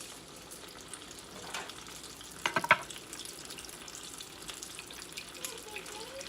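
Stuffed tacos deep-frying in hot grease, a steady crackling sizzle. A brief cluster of sharp clacks about two and a half seconds in is the loudest sound.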